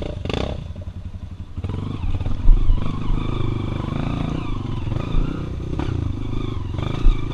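Single-cylinder dirt bike engine running at low speed over rough trail, easing off briefly and then picking up again. Heavy thumps about two and a half seconds in and again near the end, with clattering from the bike on the rough ground.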